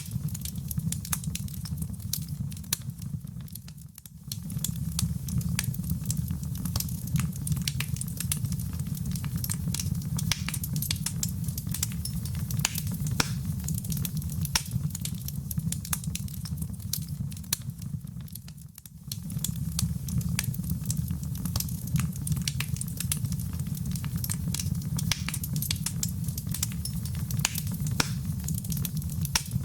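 Wood fire burning in a fireplace: a steady low rumble of flames with dense, irregular sharp crackles and pops. The whole sound briefly fades down and back twice, about four seconds in and again near nineteen seconds.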